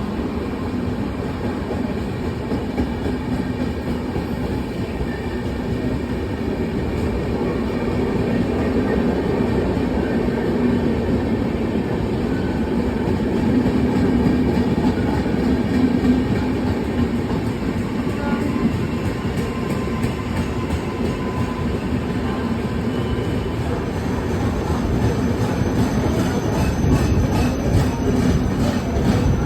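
Train running along the track at a railway station: a steady rumble of the carriages on the rails, with faint clicking near the end.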